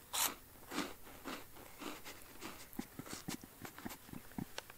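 A person biting into a crunchy orange snack and chewing it close to the microphone: one sharp crunch at the start, a few more about every half second, then a run of smaller, quicker crunches.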